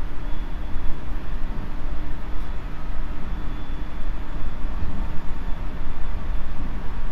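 JR Central 373-series electric multiple unit running on the line, heard from on board car KuMoHa 373-8: a steady, loud rumble of wheels on rail, with a faint steady tone that fades out about five seconds in.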